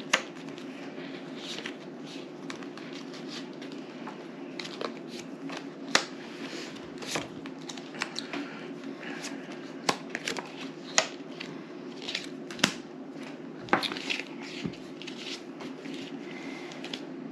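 Playing cards being handled during a game: cards drawn, flicked and laid down on a table, making scattered sharp clicks and snaps at irregular intervals. A steady low hum runs underneath.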